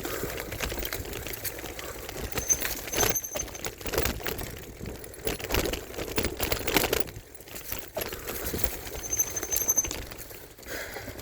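Mountain bike jolting along a dirt trail, its tires crunching and its frame and handlebar phone holder rattling and clicking unevenly. A thin high whistle comes twice, about three seconds in and again near the end.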